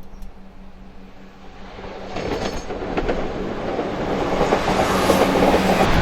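Class 170 Turbostar diesel multiple unit approaching and growing steadily louder, with a steady engine hum and wheels clicking over the rail joints.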